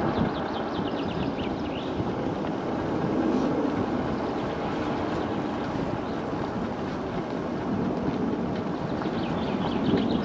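MiniPro Mi716 electric scooter riding along, a steady rumble of wheels on the road mixed with wind buffeting the microphone.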